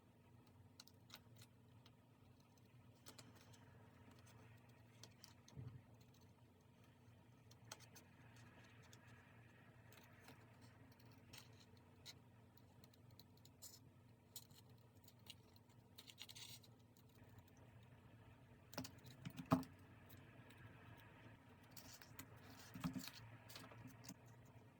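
Faint desk-crafting sounds of paper and stationery being handled, scattered soft clicks and scratches. There are a few louder short knocks about two-thirds of the way through and again near the end.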